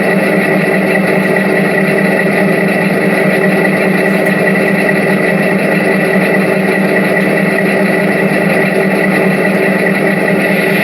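Diesel locomotive engine running steadily at a constant, even pitch.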